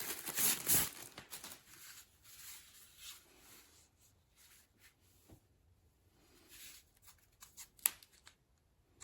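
Close handling noise: rustling for about the first second, then fainter scuffs and a few sharp separate clicks later on.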